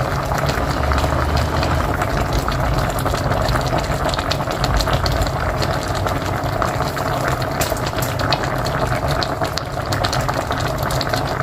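Pot of mocotó (beef feet) boiling steadily on a wood-fired stove: a continuous bubbling with many small pops.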